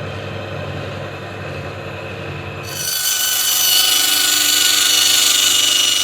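Frontier portable bandsaw sawmill running: its engine hums steadily, then about three seconds in the blade enters the walnut log and a loud, high-pitched cutting hiss with a steady ringing tone joins the engine.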